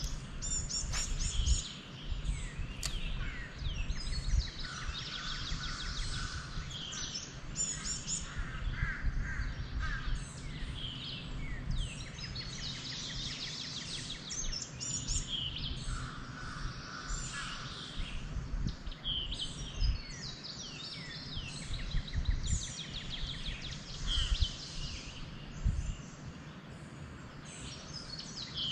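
Several songbirds singing at once, a busy mix of high chirps, quick slurred notes and short trills, over a low uneven rumble.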